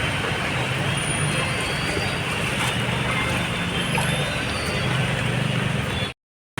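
Steady road traffic noise with a low engine hum underneath; it cuts out abruptly near the end.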